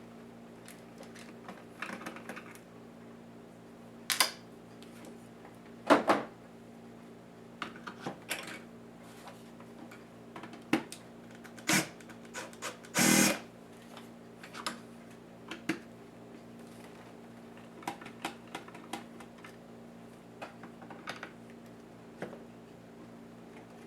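Irregular small clicks and taps of laptop parts and tools being handled while a Lenovo IdeaPad S10-3T netbook is taken apart, with a few louder knocks, over a steady low hum.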